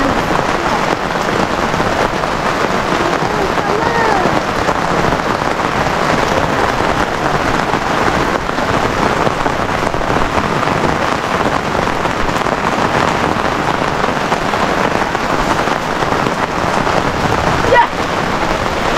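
Steady rain falling and splashing on surfaces, a dense unbroken hiss, with one sharp click near the end.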